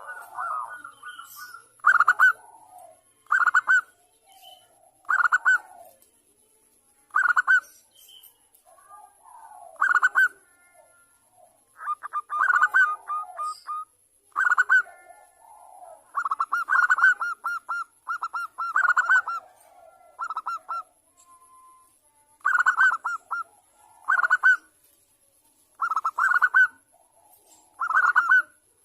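Zebra dove (perkutut) cooing: short bursts of rapid, pulsing coos repeating every one to two seconds, with softer, lower coos between them. It is offered as a female's call to lure a male into calling.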